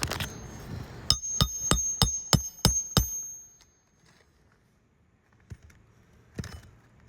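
A hand hammer driving a roofing nail into an asphalt shingle: about seven quick blows, roughly three a second, each with a short metallic ring. The nail does not seat all the way.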